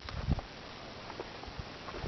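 A low thump about a quarter second in, then a few light knocks over steady faint outdoor noise.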